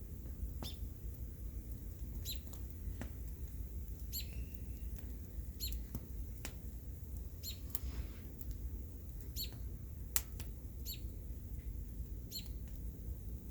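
Bonfire crackling, its burning wood giving off irregular sharp pops about once or twice a second over a steady low rumble.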